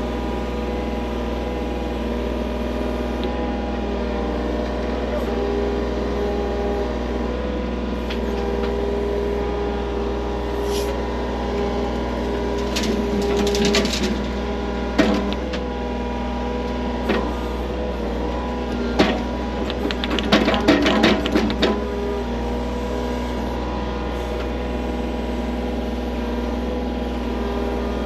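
Skid loader engine running steadily throughout, with scraping and clanking strikes of digging tools in dirt and gravel, bunched mostly in the middle of the stretch.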